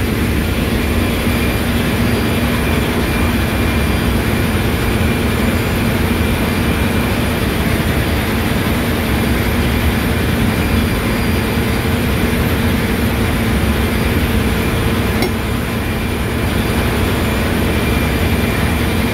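Lube oil purifier (centrifugal separator) running steadily amid loud engine-room machinery noise: a constant hum with a steady whine over it.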